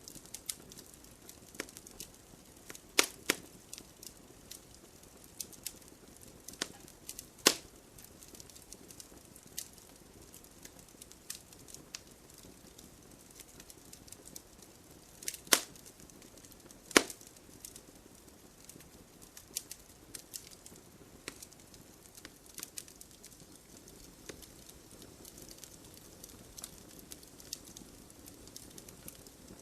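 Wood campfire burning with a soft hiss and scattered small crackles, broken by a few louder sharp pops about 3, 7, 15 and 17 seconds in.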